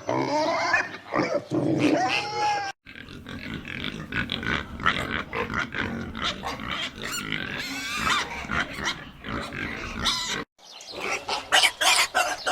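Domestic pigs grunting and oinking, in several short clips cut together: loud pitched calls in the first few seconds, a quieter stretch of many short overlapping grunts, and louder calls again near the end.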